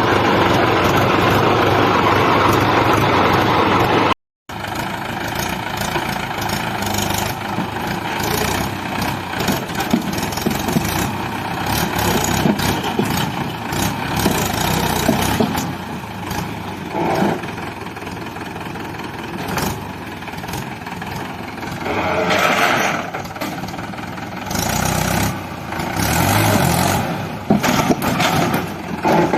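Tractor engine running, with a sudden break about four seconds in and louder surges near the end.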